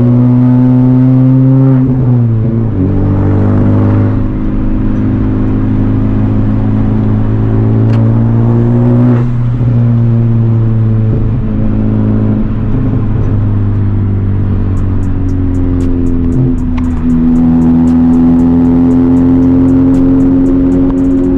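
Honda Civic Type R's turbocharged four-cylinder with catless downpipe and resonator delete, loud under way. The engine note holds fairly steady and drops sharply in pitch four times, as at gear changes. Light, rapid ticking comes in near the end.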